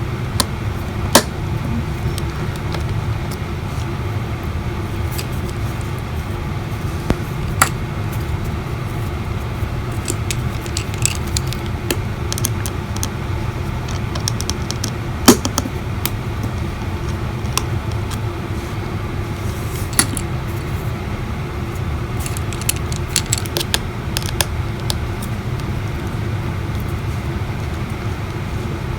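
Scattered sharp clicks and taps of a small screwdriver and tiny metal parts while the screen-bracket screws of an iPhone SE are undone, over a steady low background hum.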